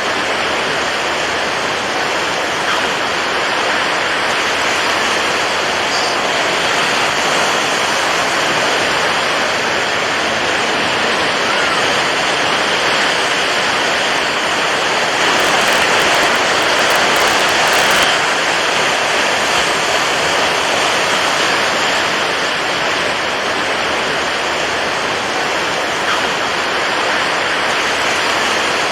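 Steady rush of water waves, a dense even wash that swells a little louder about halfway through.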